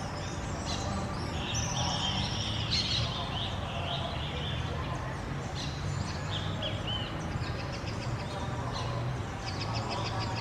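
Small birds chirping and twittering in quick, overlapping high calls and short trills, over a steady low background rumble.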